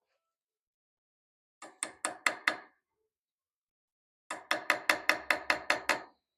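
Hammer striking metalwork in two quick runs of rapid, even blows: about five strikes, a pause, then about nine more at roughly five a second.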